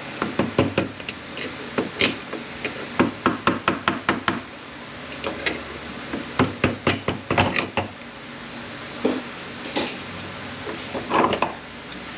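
Sharp metal knocks and clanks in quick runs of several strikes with short pauses, as an automatic transmission's internal support is worked loose from the case.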